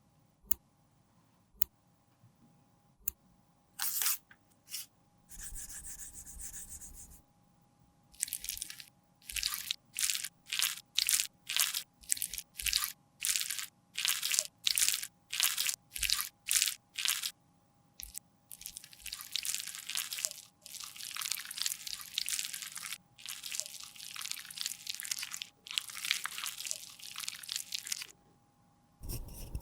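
A tool scraping and working cream concealer: a few light clicks, then short crunchy strokes about two a second, then longer, steadier scrapes of about a second each.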